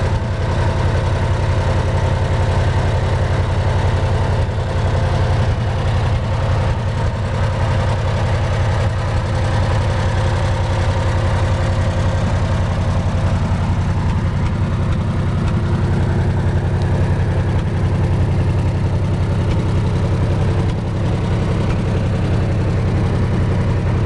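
Wisconsin VF4 air-cooled four-cylinder engine of a 1947 Lincoln 200 amp Pipeliner Junior welder running steadily, turning the welding generator.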